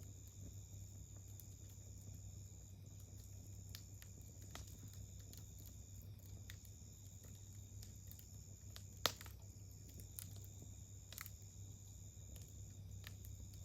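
Wood campfire crackling faintly, with scattered small pops and one sharper, louder pop about nine seconds in.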